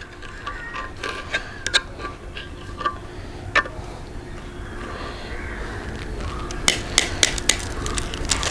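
Scattered metallic clinks and knocks of engine parts and tools being handled, with a quick cluster of clinks about seven seconds in, over a steady low hum.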